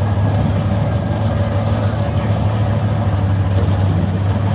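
Drag-racing car's engine idling steadily at the starting line, a loud, constant low rumble with no revs.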